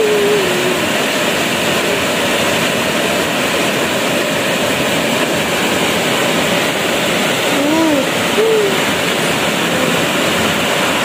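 Heavy rain pouring steadily, a dense even hiss of downpour on leaves. A few short pitched sounds cut through it: one at the very start and a small cluster about eight seconds in.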